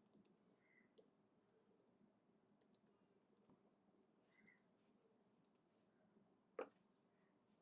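Near silence with a few faint, scattered clicks of computer input, one sharper knock about six and a half seconds in.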